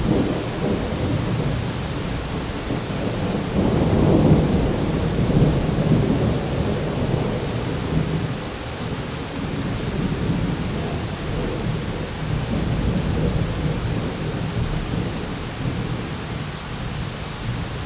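Thunder rolling in one long low rumble over steady rain, swelling to its loudest about four seconds in and then slowly dying away.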